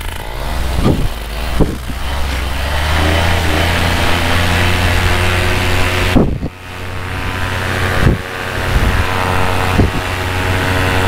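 Minari F1 two-stroke paramotor engine and propeller revving up to full power, dipping briefly about six seconds in and then building again. A few short thumps come through over it.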